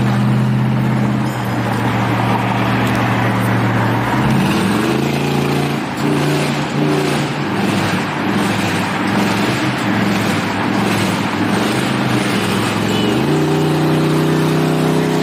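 Car engine running with a steady drone, then climbing in pitch about four seconds in and again near the end as it accelerates, with a loud rushing noise through the middle.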